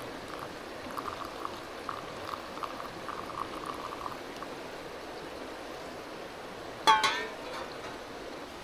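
Water bubbling and trickling in small ticks over the steady rush of a river, then a single short, loud ringing sound about seven seconds in.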